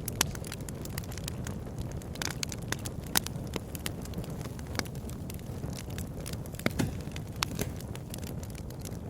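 Wood bonfire crackling, with frequent irregular sharp pops over a steady low rush of the flames.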